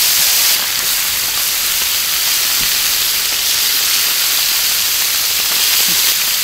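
Marinated chicken wings sizzling as they fry in hot oil on a large flat pan: a steady, loud hiss.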